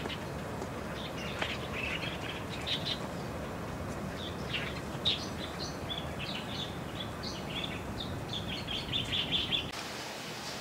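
Small birds chirping in quick, irregular runs of short high calls over steady outdoor background noise. The birdsong cuts off suddenly near the end, giving way to a steady hiss.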